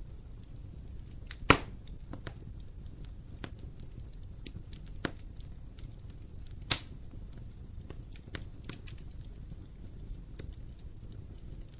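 Wood fire crackling over a low steady rumble, with many small ticks and a few louder sharp pops, the loudest about one and a half seconds in and another just under seven seconds in.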